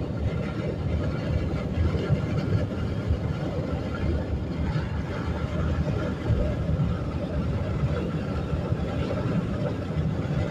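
Steady road and engine rumble of a car cruising at highway speed, heard from inside the car.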